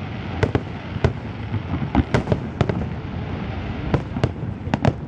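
Aerial firework shells bursting: about ten sharp bangs at irregular intervals, over a continuous din of further bursts between them.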